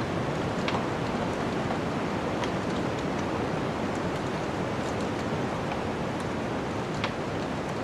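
Wood fire in a fireplace crackling, with a few sharp pops, over a steady rushing snowstorm wind.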